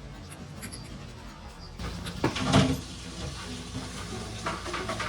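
A sudden loud knock about two seconds in, then soft background music with held notes.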